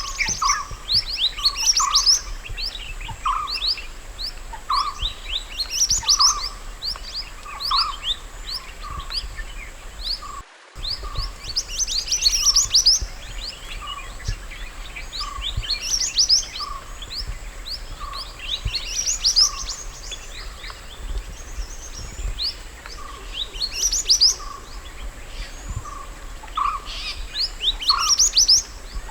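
Mountain white-eye song: repeated flurries of quick, high, falling chirps over a regular run of lower notes about twice a second, with a brief break about ten seconds in.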